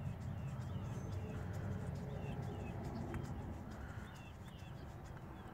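Small birds chirping repeatedly in the background, short high chirps a few per second, over a steady low rumble.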